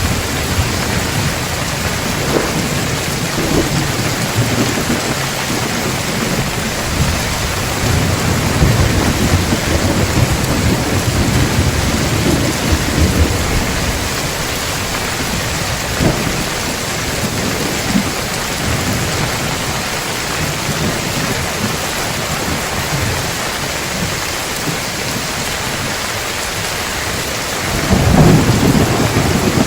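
Heavy rain pouring steadily with low thunder rumbling through it, swelling into a louder rumble near the end.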